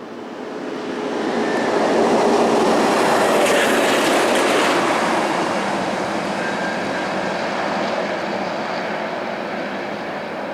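Kenworth T909 heavy truck hauling a CAT off-road water truck passes by, its engine and tyre noise swelling over the first two seconds, then slowly fading.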